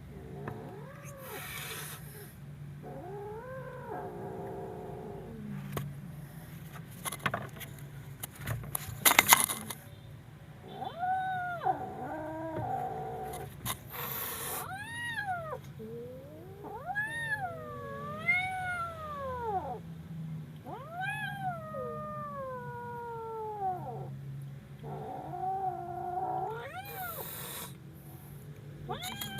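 A kitten yowling in fear: a series of long, wavering cries that rise and fall in pitch, with a few short rushing noises between them.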